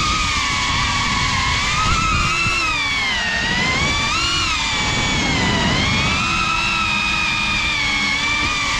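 SpeedyBee Bee35 FPV quadcopter's motors and propellers whining, the pitch rising and falling smoothly with the throttle, over a low rumble of wind.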